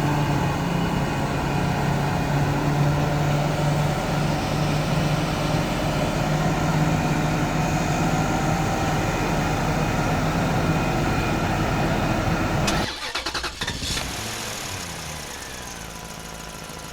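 Heavy engine running steadily at a constant pitch. It is the crane hoisting a Bailey bridge section. About 13 seconds in it drops off sharply, and a quieter engine sound with pitch glides follows.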